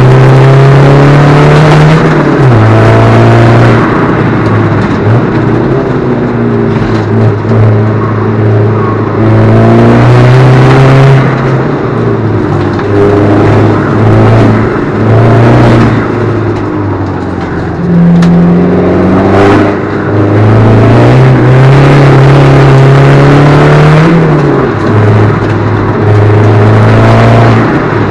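Alfa Romeo 147 JTD's four-cylinder turbodiesel engine driven hard: its note climbs steadily under full throttle and drops sharply at upshifts, about two seconds in and again near the end, with shorter dips and rises in between as the throttle is lifted and reapplied.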